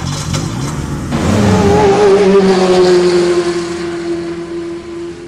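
Sports car engine sound effect: a few sharp clicks, then the engine revs, its pitch rising and wavering before it holds steady, and it cuts off suddenly at the end.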